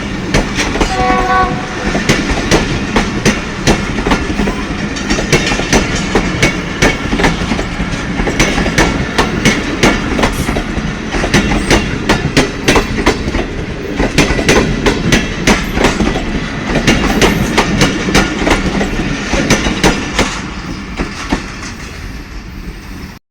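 Coaches of a departing passenger train rolling past, their wheels clicking rhythmically over the rail joints; the clatter fades away near the end. A brief tone sounds about a second in.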